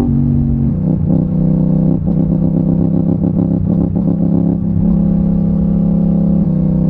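Yamaha MT-07's parallel-twin engine off the throttle: its note drops, then burbles unevenly on the overrun for a few seconds as the bike slows. It settles to a steadier note and begins to pick up again near the end.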